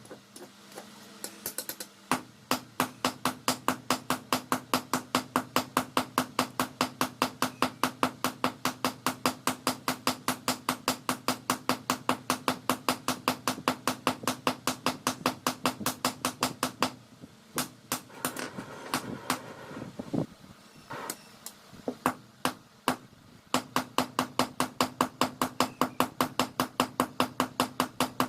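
Hammer striking hot steel from a car leaf spring on an anvil, in a fast even rhythm of about three blows a second, with a steady hum underneath. The blows stop for a few seconds in the middle, with only a few scattered knocks, then start again near the end.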